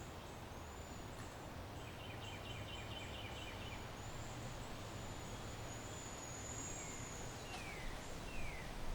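Residential backyard ambience: a steady low city hum under small birds chirping, with a quick run of chirps about two seconds in, thin high whistles, and a few short falling calls near the end.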